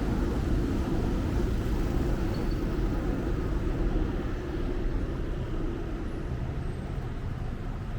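Steady traffic noise of a busy city road, a continuous rumble of passing cars and other vehicles, easing slightly near the end.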